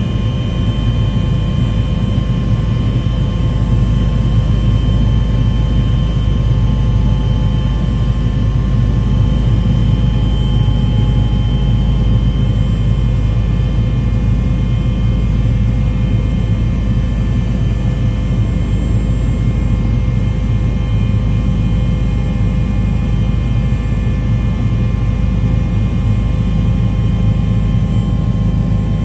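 A steady, loud low rumble with a constant hum of several tones that holds unchanged throughout, like running engine noise.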